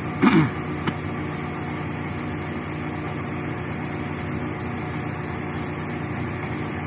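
Crane's engine running steadily. Just after the start there is a brief sound that falls in pitch, and a sharp click follows about a second in.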